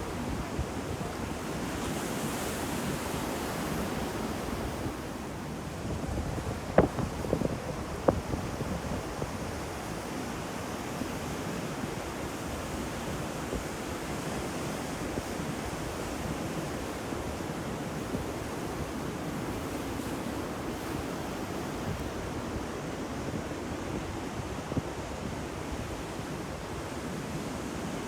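Ocean surf, a continuous rush of breaking waves with wind on the microphone. A few sharp cracks stand out about seven and eight seconds in.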